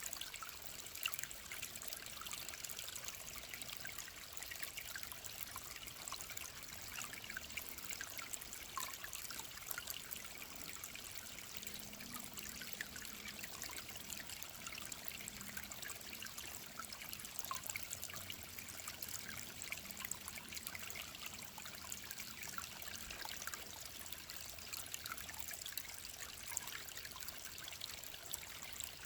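Small mountain-valley stream trickling and burbling steadily, with many small splashes.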